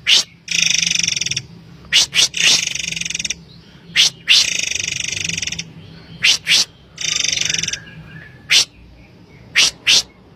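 Forktail (murai air) calling: harsh, buzzy rasping calls about a second long, four in all, alternating with short sharp high notes that come in quick pairs and triplets, three close together near the end.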